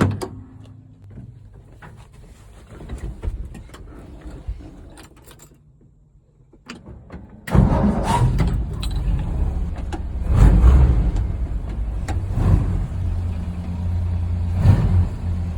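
A sharp knock, then scattered faint clicks and knocks. About halfway through, the Ford F100's engine starts abruptly and runs steadily.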